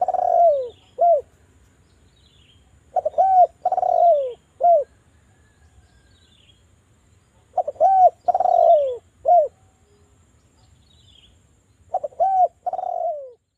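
Sunda collared dove (derkuku) cooing: a three-note phrase of a short coo, a longer falling coo and a short closing coo, repeated four times about every four seconds. Faint high chirps of small birds sound between the phrases.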